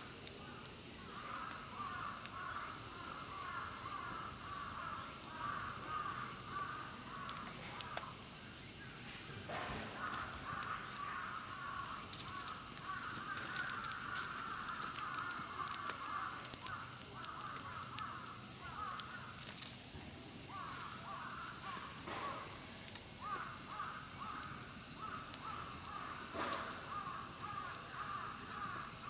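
Summer insects shrilling steadily at a high pitch, with a fast repeated chirping call running over it that pauses briefly a few times.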